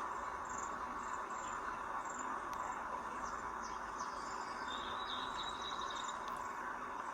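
Outdoor nature ambience: a steady insect drone with scattered short, high bird chirps, and a brief held high whistle about five seconds in.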